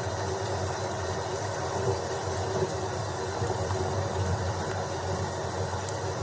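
Steady rain falling, an even rushing noise weighted toward the low and middle range, with no thunderclap.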